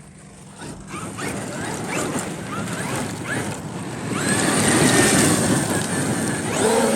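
Traxxas XRT RC truck's electric motor whining as it is revved repeatedly, with its tires churning over damp gravel. It gets louder about four seconds in.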